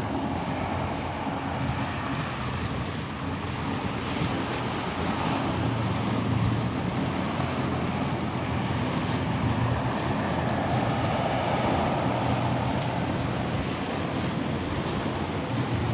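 Wind on the microphone and surf, with a steady low engine hum from boats on the water.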